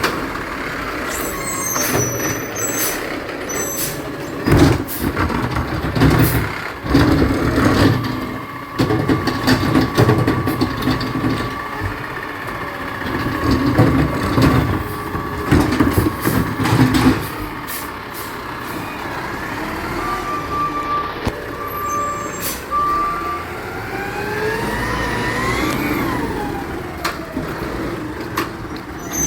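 Garbage truck at work, its diesel engine running, with a long run of loud knocks and clattering in the middle. Later come three short beeps, then the engine revs up and settles back near the end.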